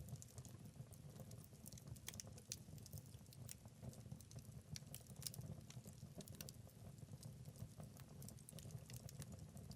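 Wood fire in a fireplace crackling: scattered sharp pops and snaps over a soft, steady low rumble of the flames.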